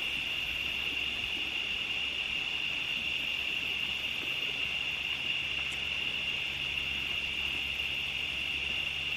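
Steady, unbroken chorus of crickets at one even high pitch. About halfway through, a faint low hum joins in underneath.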